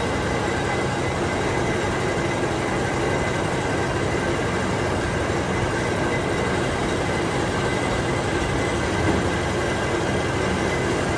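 A workshop machine running steadily, with a constant mechanical noise and a few steady whining tones.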